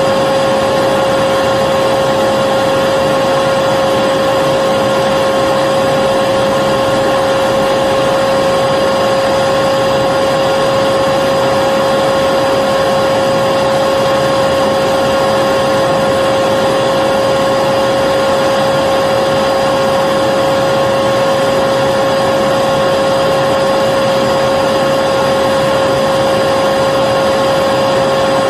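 Vacuum cleaner running continuously, a steady whine with a fixed hum over a constant rushing noise.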